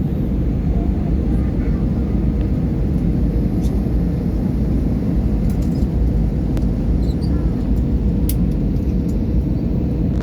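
Airliner cabin noise: a steady, loud rumble of engines and airflow with a faint constant hum.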